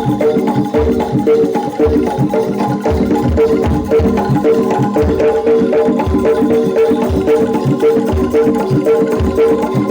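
Jaranan dance accompaniment: a Javanese gamelan-style ensemble playing a repeating pattern of pitched chimes over a steady drum beat.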